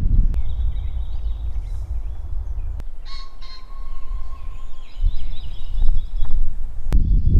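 Birds chirping over heavy wind buffeting the microphone in uneven gusts.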